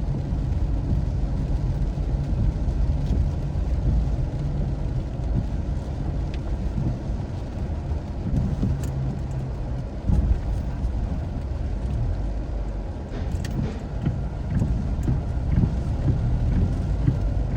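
Car driving: steady low engine and road rumble, with a few faint ticks past the middle.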